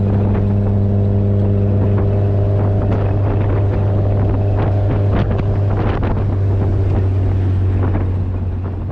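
Honda Civic Si's turbocharged 1.5-litre four-cylinder running through a MAPerformance race catback exhaust, which is basically a straight pipe. It drones steadily at a constant engine speed, then fades near the end.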